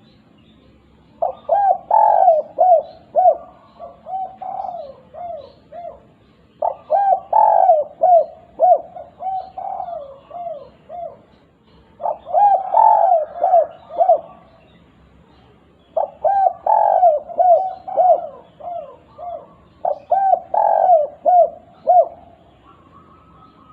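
Spotted dove (derkuku) cooing its 'kuk 2' song, a repeated phrase of a few loud coos that trails off into softer ones, given five times with short pauses between. Faint chirps of small birds are in the background.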